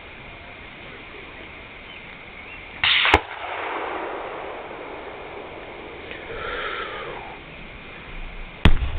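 Two sharp distant bangs of rifle fire at a Tannerite-loaded car: one about three seconds in, just after a short rush of noise, and a second near the end followed by a low rumble.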